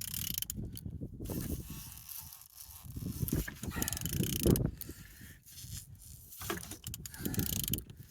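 A removed L1V3 car engine being turned over by hand with a wrench: irregular mechanical clicking and scraping as the crankshaft rotates. The engine turns freely with compression on all cylinders.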